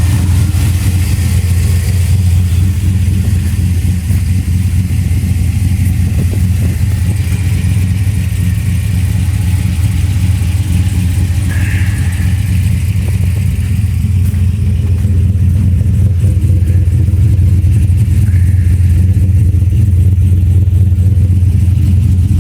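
Engine of a turbocharged 2002 Chevrolet Silverado pickup idling steadily.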